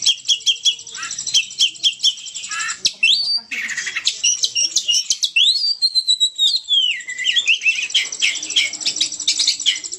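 Oriental magpie-robin (kacer) singing vigorously: a fast, unbroken stream of sharp chirps, with longer sliding whistles rising and falling about halfway through.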